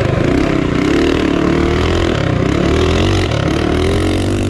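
Modified single-cylinder minibike engine running hard at high revs, its pitch wavering up and down as the throttle is worked.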